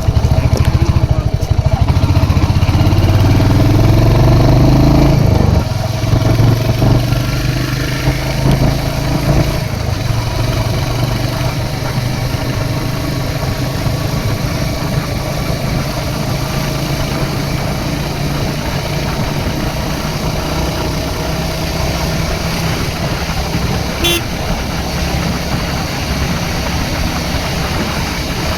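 Royal Enfield Hunter 350's single-cylinder engine accelerating, its pitch climbing for the first five seconds or so, then dropping off and running on at a steady cruising speed. A brief horn toot sounds about 24 seconds in.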